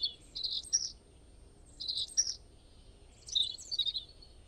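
Small birds chirping in three short bouts of quick high chirps, each about a second or more apart.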